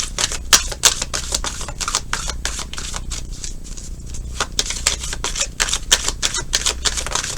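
A deck of tarot cards being shuffled by hand: a quick run of dry flicking clicks that thins out around the middle and picks up again, over a faint steady low hum.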